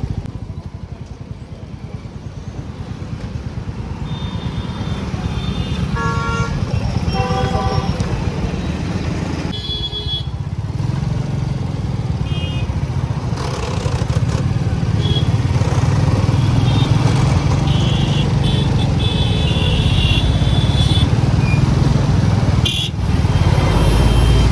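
Royal Enfield Bullet 350's single-cylinder engine running steadily while riding, getting louder after the first few seconds. Other vehicles' horns honk repeatedly from about six seconds in.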